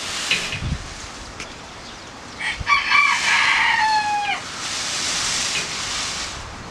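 A single long bird call about two and a half seconds in: a choppy start, then a held note lasting about a second and a half that falls away at the end. A steady rushing noise runs underneath.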